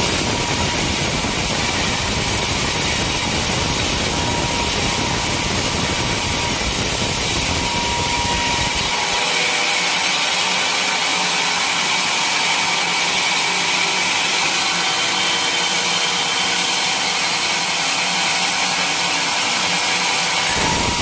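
Sawmill saw running and cutting through a teak log, a steady loud whine over dense sawing noise. A deep low rumble underneath drops away about nine seconds in and comes back near the end.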